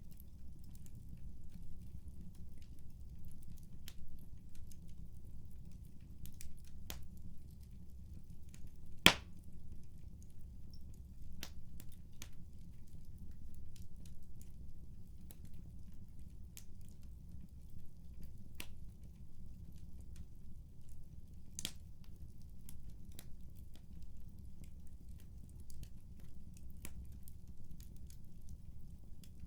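Wood fire crackling in a fireplace: a low steady rumble with irregular sharp pops, one much louder pop about nine seconds in.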